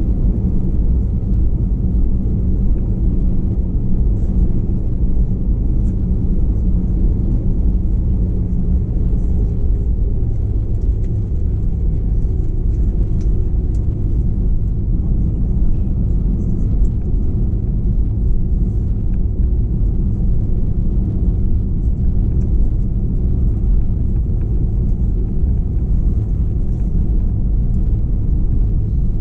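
Steady low rumble of an Airbus A321-211's engines and airframe, heard inside the passenger cabin.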